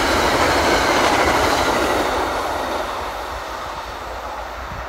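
MBTA commuter rail passenger coaches rolling past on the track: a steady rumble of wheels on rail that fades from about two seconds in as the train pulls away.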